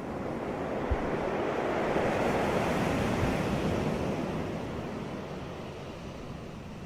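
Sea waves breaking on a beach: one wave swells to a peak about two to three seconds in, then its wash ebbs away.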